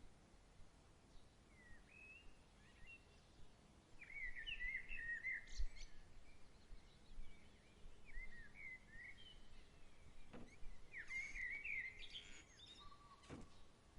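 Evening songbirds chirping in short, quick phrases every second or two over a faint steady background hiss, with two brief clicks near the end.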